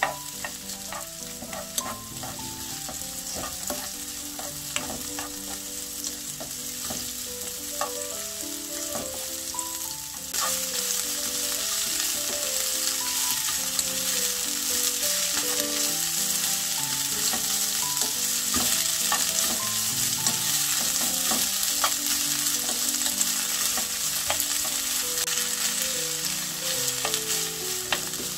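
Onions and sweet potato stems sizzling in oil in a nonstick frying pan as they are stir-fried with a wooden spoon, with light spoon clicks now and then. The sizzle gets louder about ten seconds in, by when the stems are in the pan. Soft background music plays underneath.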